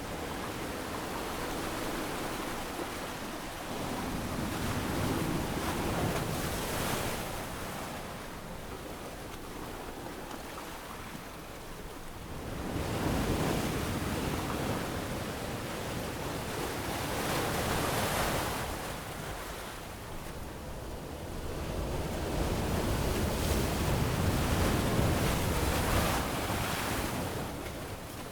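Ocean waves breaking and washing up a sandy beach, the surf swelling and ebbing in slow surges every few seconds.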